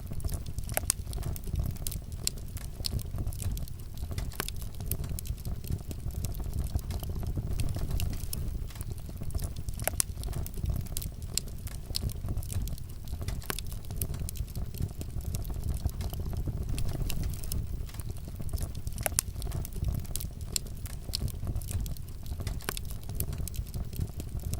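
Wood fire burning in a fireplace, a steady low rumble of flames with irregular sharp crackles and pops scattered throughout.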